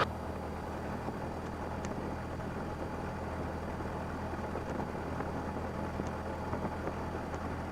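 Cessna 172N's four-cylinder Lycoming engine running steadily at low taxi power, a constant low drone.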